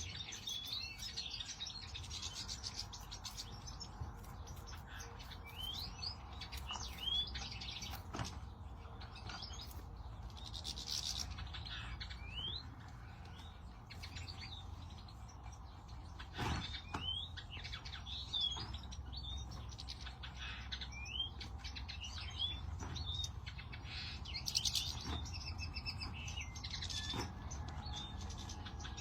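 European goldfinches twittering, with short gliding chirps scattered throughout. A few sharp clicks and a low steady hum sit underneath.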